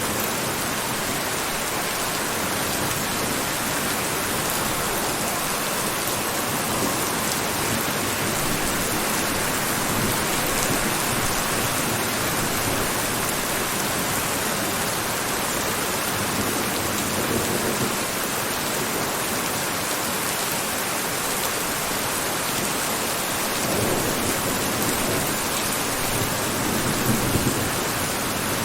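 Steady heavy rain falling as an even hiss, with faint low swells a few times that may be distant thunder.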